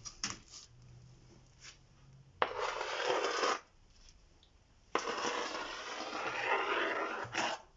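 A spatula scraping through wet gypsum plaster, in two rasping strokes: a short one, then a longer one a couple of seconds later.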